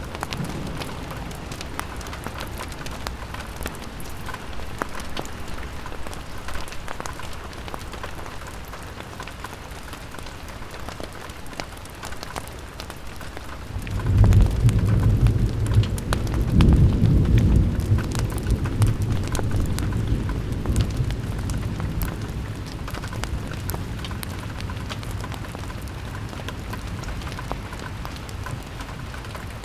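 Rain falling on a window, a steady hiss with many fine drop ticks. About halfway through a low rumble of thunder swells up suddenly, is loudest for a few seconds, then slowly fades back under the rain.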